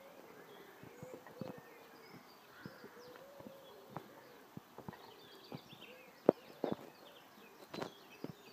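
Footsteps knocking irregularly on the planks of a wooden footbridge, the loudest about six seconds in, with small birds singing in the surrounding trees.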